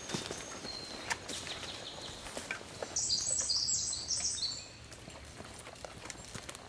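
Footsteps and rustling through forest undergrowth. About three seconds in, a songbird sings a quick run of high notes lasting about a second and a half, the loudest sound here.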